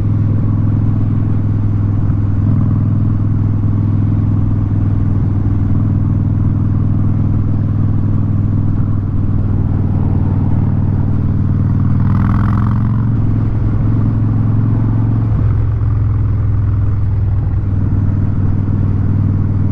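Harley-Davidson Street Bob V-twin with a Vance & Hines exhaust running steadily at cruising speed, heard from the bike, with a brief rush of noise about twelve seconds in and a short change in the engine note a few seconds later.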